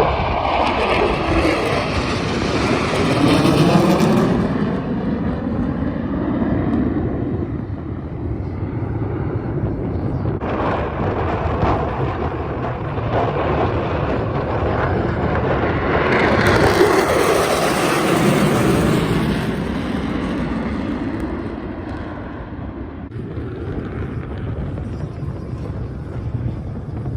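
Jet aircraft flying past twice, each pass swelling to a peak and fading away with a sweeping, shifting tone. The second pass, about sixteen seconds in, is the brighter and sharper of the two.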